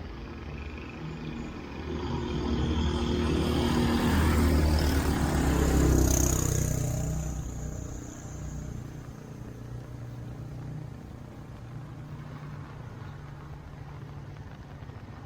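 A motor vehicle passing close by: its engine builds up over a few seconds, is loudest about five seconds in, then fades, leaving a steady low traffic hum.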